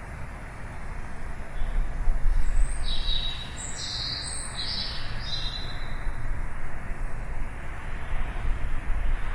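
Birds chirping: a quick run of several short, high calls about three to five seconds in, over a steady low rumble.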